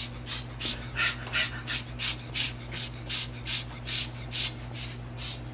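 Pet cockatoo making rhythmic breathy huffing sounds, short hisses about three a second, in a steady run as an excited bird does.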